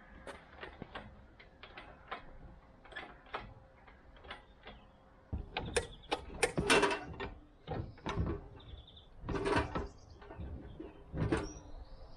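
Irregular mechanical knocks, clicks and clattering, with louder bursts of rattling about halfway through and again near the end.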